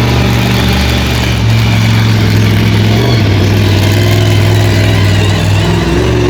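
Monster truck engine running loud and steady, its note stepping down a little about three seconds in.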